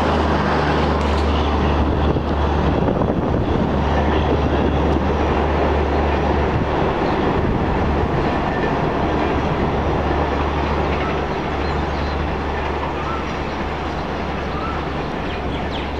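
A rake of LHB passenger coaches rolling over the rails, the last coach (a luggage, brake and generator car) going by at the start, then the rumble and clatter of the departing train slowly fading as it pulls away.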